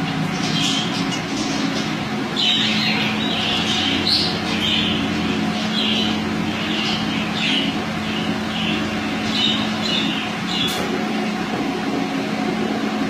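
Budgie squawking in a quick run of short, harsh calls that stops about eleven seconds in, over a steady low hum.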